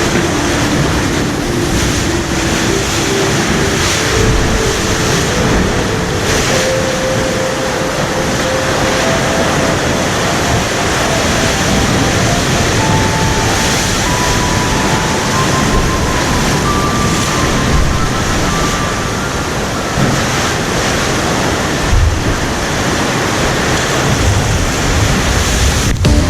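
Ocean swell and surf washing over rocks in a steady, dense rush of water, with some wind on the microphone.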